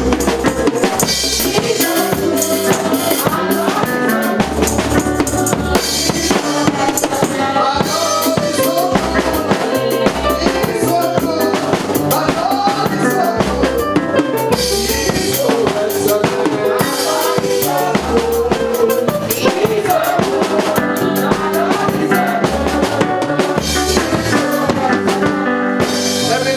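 Upbeat praise music from a church band, driven by a drum kit with a steady beat of kick and snare hits over a moving bass line.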